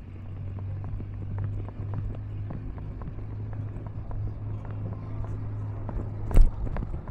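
Train running on the track: a steady low hum with irregular clicking from the wheels and rails, and one loud knock near the end.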